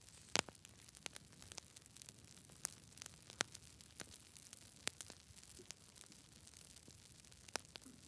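Campfire crackling: a faint low hiss of burning with irregular sharp pops of wood, the loudest pair about half a second in and a few more single snaps spread through.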